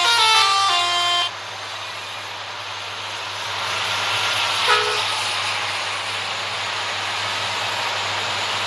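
A truck's musical multi-tone horn plays a short stepped melody and cuts off about a second in. The steady noise of the truck driving follows, growing louder near the middle, where there is one brief short beep.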